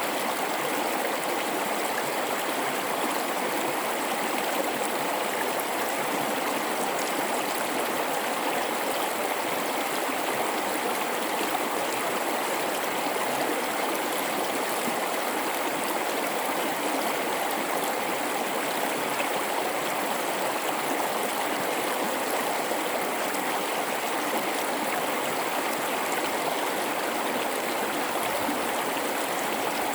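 Gorge river flowing steadily: an even, unbroken rush of water with nothing else standing out.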